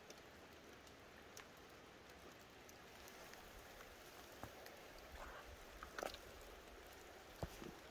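Light rain starting: faint, scattered raindrops ticking, a little more often from about five seconds in, over a quiet steady hiss.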